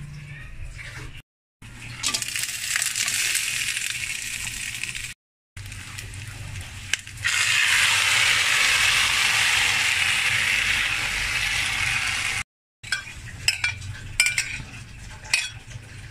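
Mushroom gravy sizzling and bubbling in a wok, in short stretches broken by brief silent cuts, loudest in the middle. Near the end a metal utensil clinks against the pan several times.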